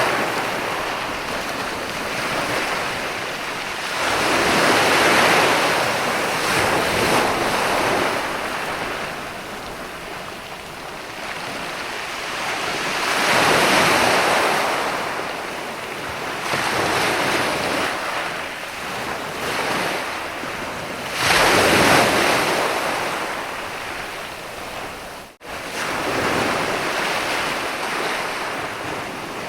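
Ocean surf breaking and washing up a sandy beach, a steady hiss that swells with a larger wave about every eight to nine seconds. The sound drops out for an instant about twenty-five seconds in.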